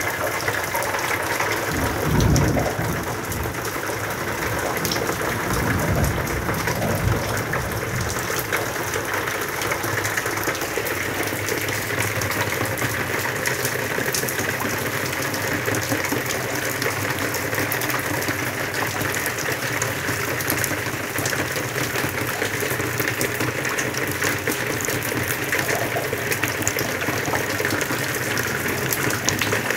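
Steady rain falling on concrete walls, ground and plants, a dense hiss of many small drop ticks. A couple of low thumps come in the first several seconds.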